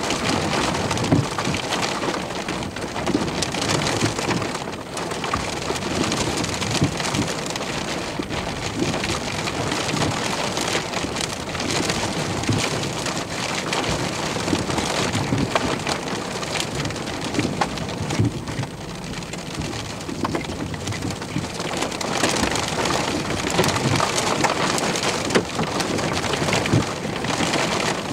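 Heavy rain pelting the car's roof and windshield, heard from inside the vehicle: a dense, steady patter of drops.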